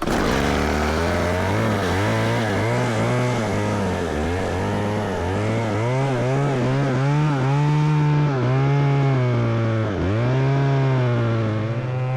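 Chainsaw running at high throttle while cutting through a fallen tree across the trail. Its pitch sags and recovers several times as the chain bogs in the wood, dipping sharply about ten seconds in.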